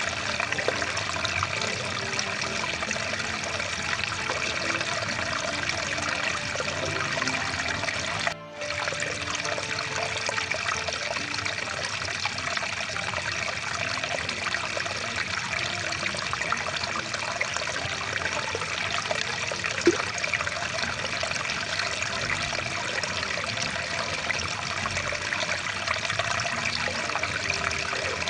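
Rushing water of a small stream running steadily. It briefly cuts out for a fraction of a second about eight seconds in, and a single sharp click sounds about two-thirds of the way through.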